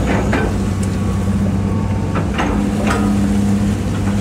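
Hitachi EX200-5 excavator's diesel engine running steadily under hydraulic load, its hum shifting as the controls are worked. A few short knocks and clanks come about half a second in and again around two to three seconds in.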